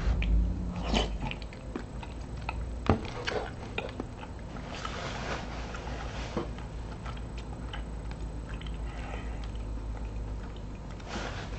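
A man chewing a mouthful of chunky beer and cheese soup with potato, beef and bacon pieces: close mouth sounds with small wet clicks.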